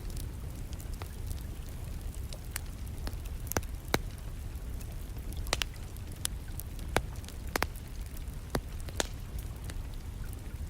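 Wood burning in a fireplace, crackling with sharp, irregular pops, the loudest about four and seven seconds in, over a steady low rumble of distant rain.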